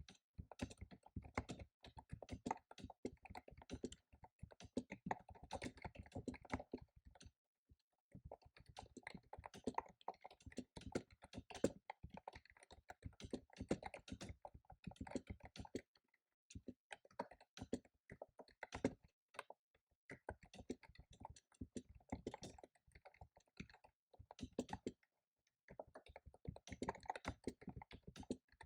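Fast typing on a computer keyboard, dense runs of key clicks broken by a few short pauses.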